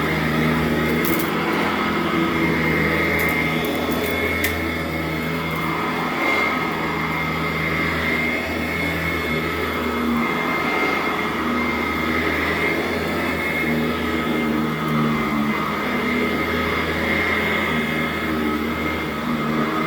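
Sanitaire SC899 commercial upright vacuum cleaner running steadily on carpet, a constant whine over a low hum, with a few faint clicks in the first few seconds.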